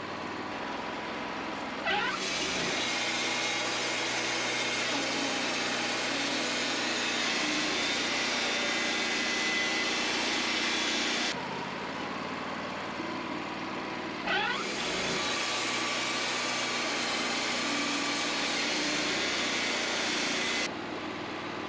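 Engine-driven machinery running steadily, twice rising into a louder, rushing machine noise that lasts several seconds, each time starting with a short rising whine.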